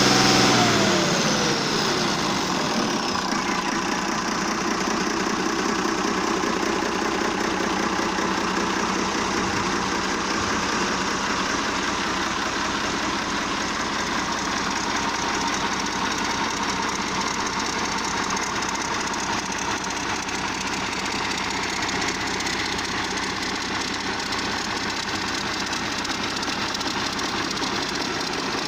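Deutz BF6L913 six-cylinder air-cooled turbo diesel running. Its revs fall back over the first couple of seconds, and then it idles steadily.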